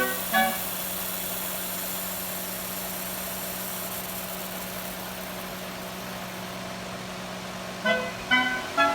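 Car engine running with the air-conditioning compressor engaged: a steady hum with a high hiss that fades out about two-thirds of the way through.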